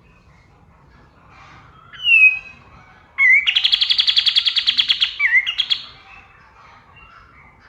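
A kapas tembak songbird singing: a short downslurred whistle about two seconds in, then a loud, fast trill of rapidly repeated notes lasting about two and a half seconds. Faint chirping can be heard underneath.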